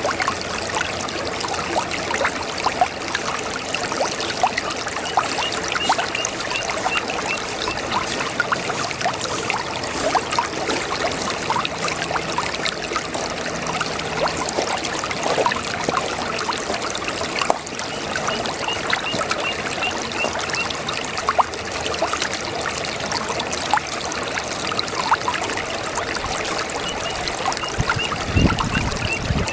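Shallow brook babbling over stones: a steady rush of running water full of small gurgles and splashes. A brief low rumble comes near the end.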